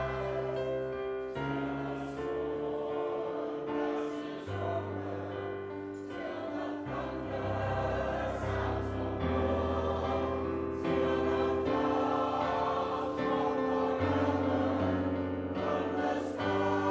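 Church choir singing slow, sustained chords with low bass notes held underneath, during special music at a worship service.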